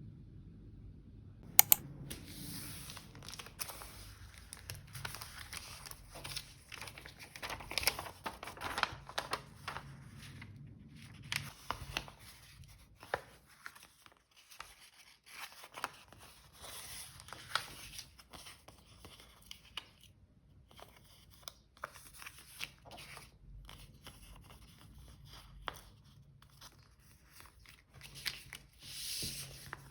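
Close-up handling of paper and stationery for journal decorating: repeated crinkling and tearing. Two sharp clicks about a second and a half in.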